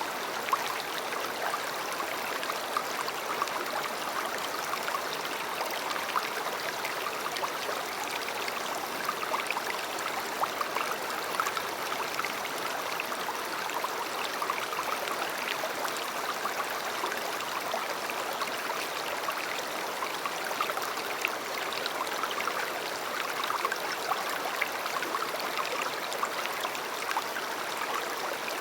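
A river flowing in a steady, even rush of water, with many small splashes and gurgles.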